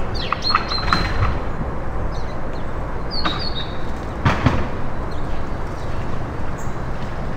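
Short high bird chirps with a falling pitch, a few times, over a steady rushing background noise, with a knock about four seconds in.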